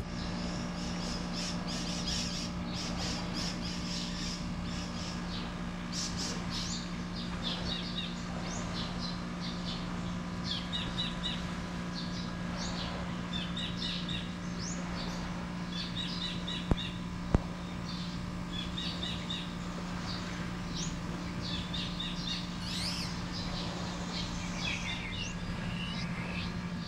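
Birds chirping in short, quickly repeated phrases over a steady low hum, with two sharp clicks about two-thirds of the way through.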